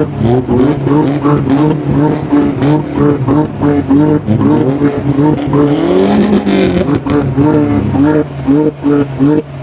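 Car engines at a car meet: one engine revved repeatedly in quick rising-and-falling blips, several a second, over the steady drone of other engines running. About six seconds in there is one longer rev that rises and falls.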